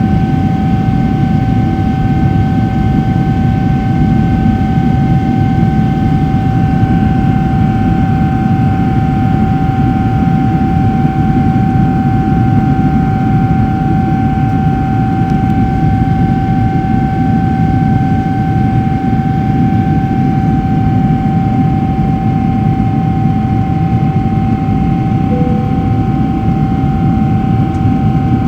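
Boeing 777-300ER's GE90-115B turbofan engines heard from inside the cabin during the climb after takeoff: a loud, steady roar with a steady whine held on one pitch over it.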